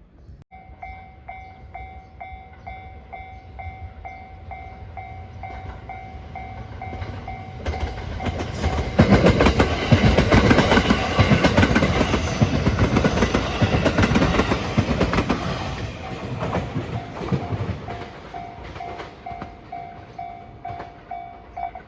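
Japanese level-crossing warning bell ringing steadily, about two strokes a second, as a train approaches. The train then passes over the crossing for about eight seconds, loud, with the clickety-clack of its wheels on the rail joints drowning out the bell. After it has gone the bell is heard again.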